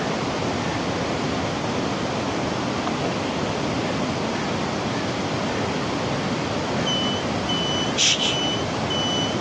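Steady rushing noise, like running water or wind, at an even level. About seven seconds in, a series of short electronic beeps starts, all at one pitch, about two a second, with one brief sharp noise among them.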